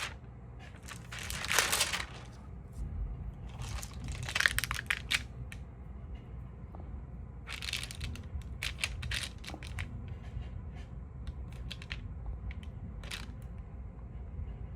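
Stamp album pages or stamp sleeves being handled, crinkling and rustling in several short bursts with a few light clicks in between.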